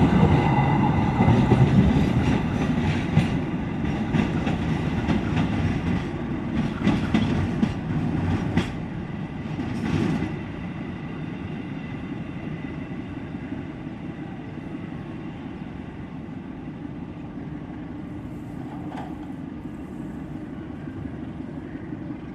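Sribilah passenger train rolling past, its wheels clicking over the rail joints, loud at first and fading over about ten seconds to a steady, quieter rumble as it moves away.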